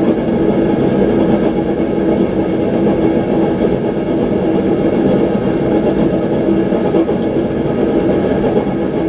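Forge running steadily: a constant rushing noise with a low, unchanging hum.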